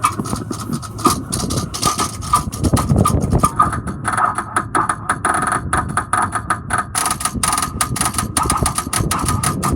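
Starter of a 2006 Ford E-450 Blue Bird Handy Bus trying to crank: rapid, irregular clicking and rattling as the starter tries to engage but does not turn the engine over, with a steady high tone underneath. The speaker takes it for a bad starter or a connection problem.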